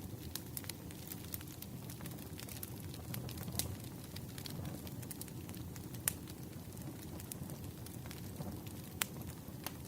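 Wood fire crackling: a steady low rumble of burning logs with scattered small snaps and a few sharper pops.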